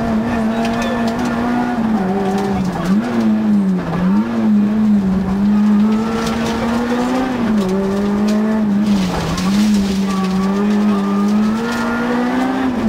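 Peugeot 106 rally car's engine heard from inside the cabin, held at high revs, its pitch dipping briefly and recovering several times.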